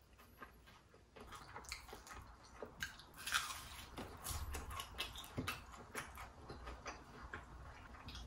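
Close-up chewing of glazed fried chicken: a run of small crunches and wet mouth clicks, loudest about three seconds in.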